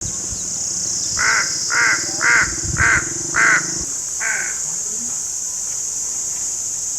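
American crow cawing six times in a steady series, about two caws a second, the last one weaker. A steady high-pitched hiss runs beneath, and a low hum stops partway through.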